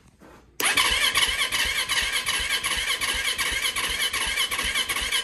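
Yamaha YZ450 four-stroke single-cylinder dirt bike engine firing up for the first time after a cam chain tensioner replacement. It catches suddenly about half a second in and keeps running loudly, its firing pulses coming in a rapid stream.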